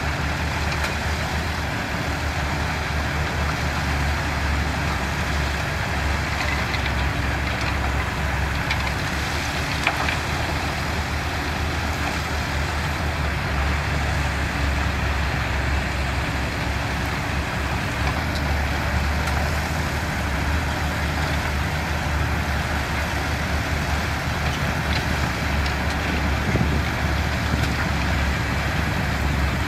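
Diesel engine of heavy construction machinery running steadily with a low drone.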